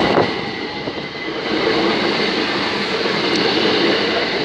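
Class 375 Electrostar electric multiple unit running over a level crossing: a steady, loud rumble of wheels on rails, with faint steady high tones above it.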